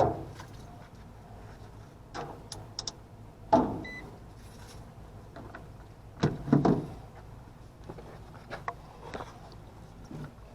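Knocks and clatters of hands and tools on an HVAC unit's casing as it is opened to reach the blower motor's capacitor. There are about five separate clunks, the loudest around a third and two-thirds of the way through, and a short high beep just before the four-second mark.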